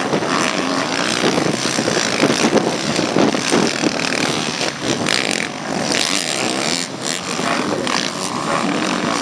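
Motocross bikes racing, their engines loud and rising and falling in pitch as the riders work the throttle.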